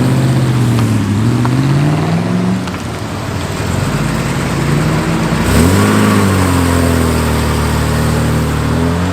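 Car engines pulling away, the engine note rising as one accelerates over the first couple of seconds, then easing. About halfway through another engine note swells and climbs, then holds steady.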